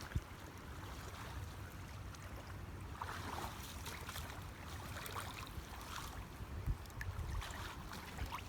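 Faint, irregular sloshing and trickling of shallow creek water as people wade through it.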